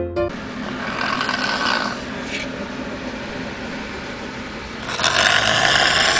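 A person snoring loudly: one snore about a second in and a louder, longer one near the end.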